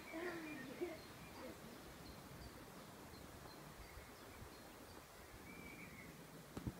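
Quiet garden ambience with a small bird chirping faintly, about three short chirps a second. Near the end a football is kicked with a single dull thud.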